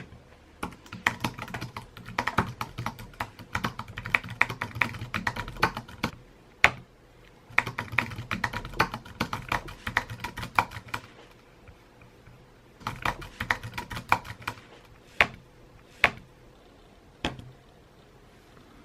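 Typing on a computer keyboard: fast runs of keystrokes with short pauses between them, then a few single, louder key taps near the end.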